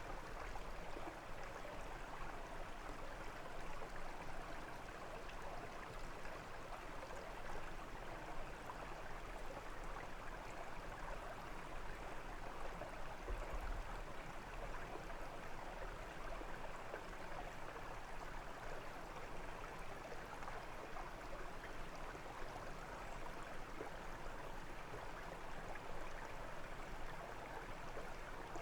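A small brook babbling and rushing steadily over stones, with an even wash of water noise throughout.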